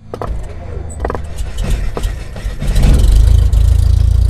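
An engine starting: a few sharp coughs over a low rumble, then, about two and a half seconds in, it catches and runs with a loud, steady low rumble.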